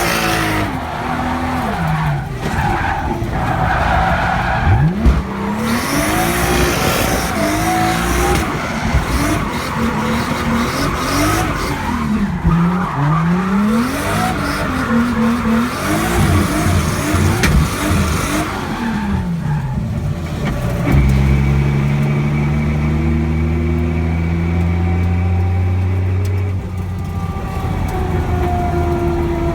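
Single-turbo 2JZ straight-six in a drifting BMW 3 Series, revs climbing and dropping over and over, with tyres screeching and skidding. For the last several seconds a steadier low drone takes over.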